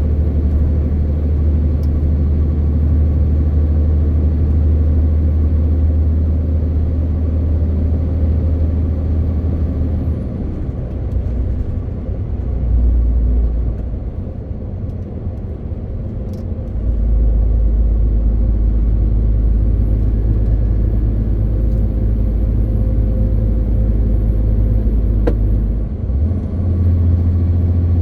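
MAN TGX 18.520 truck's diesel engine droning steadily while driving. The engine note drops about ten seconds in and steps back up near the end, as with a change of engine speed or gear.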